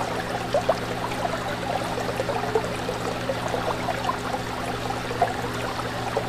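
Fish tank water bubbling and trickling, with many small bubbly pops over a steady low hum.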